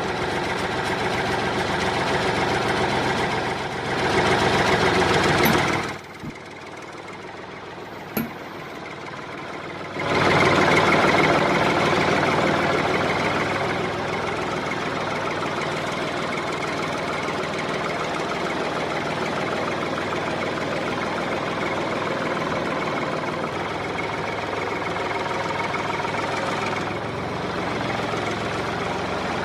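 A homemade model tractor running steadily. It grows louder from about four to six seconds, drops quieter until about ten seconds, then comes back louder and settles into an even run.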